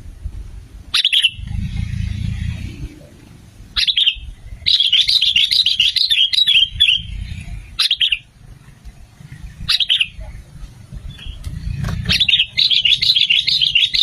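Sooty-headed bulbul (kutilang) calling: several short, sharp, falling call notes and two longer chattering song phrases, over a low rumble.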